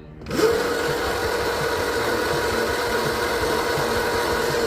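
Tuttio GB electric dirt bike's motor whining at full throttle in Tour mode: the pitch climbs quickly about a quarter second in as the bike accelerates, then holds as a steady whine at top speed over a rushing wind and tyre noise.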